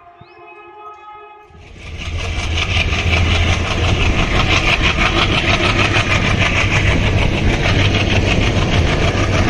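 A train horn sounds for about a second and a half. It then gives way abruptly to the loud, steady rumble and rush of a moving passenger train, heard from an open coach door behind a diesel locomotive.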